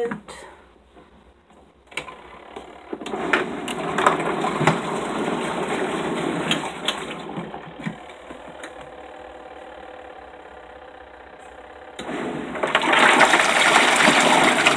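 Portable twin-tub washing machine starting its wash cycle: the motor and agitator churn the water in the tub, with scattered clicks and knocks. About twelve seconds in, a louder rush of sloshing water starts.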